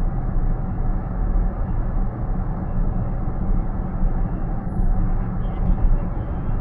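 Steady road and tyre noise inside a moving car's cabin: an even low rumble with no distinct events.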